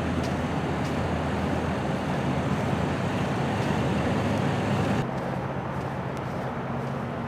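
Steady road traffic noise with a low engine hum running under it; the level drops suddenly about five seconds in and the noise goes on more quietly.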